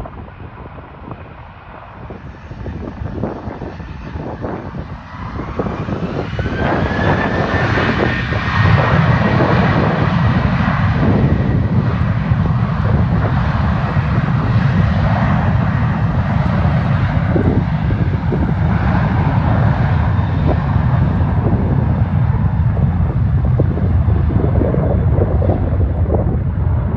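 Jet airliner engines growing louder. A whine rises about six seconds in, then a loud, steady low rumble holds as the aircraft passes close.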